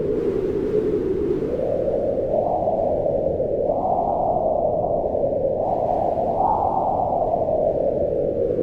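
Wind howling in slow gusts: a steady, hollow whoosh whose pitch rises and falls, swelling higher about two and a half, four and six and a half seconds in and sinking back near the end.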